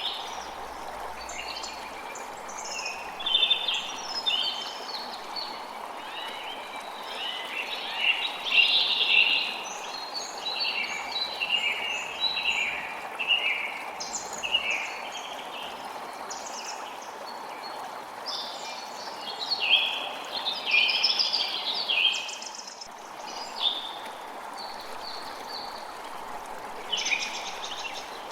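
Creek water flowing with a steady rush, with several songbirds chirping and singing in short phrases over it throughout.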